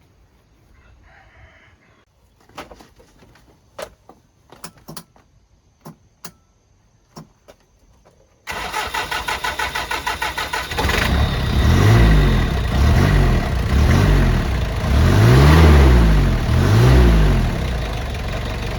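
A few scattered clicks and knocks, then a 1.4-ton box truck's engine cranks for about two seconds and catches. It is revved up and down five times, then settles into a steady idle. This is a truck that previously would not start, now starting after repair.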